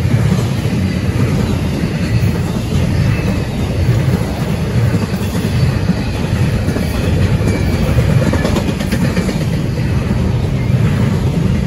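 Double-stack intermodal freight cars rolling past on the rails: a steady, heavy rumble of steel wheels on track. A patch of sharper clicking comes about eight seconds in.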